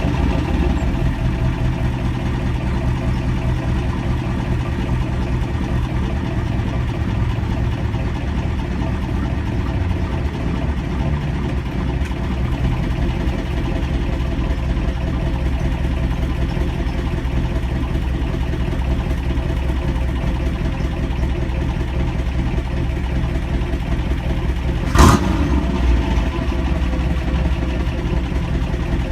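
Chevy 350 V8 in a 1991 Camaro, run with no catalytic converters through a Flowmaster 40 Series muffler, idling warm with a steady exhaust note. Near the end, one quick blip of the throttle.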